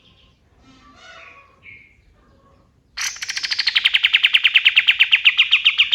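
A kapas tembak (katem) songbird singing. Soft, varied chattering notes come first. About three seconds in, it breaks into its loud 'tembak' rapid-fire rattle of sharp, evenly spaced notes, about a dozen a second, which opens with a brief high falling note.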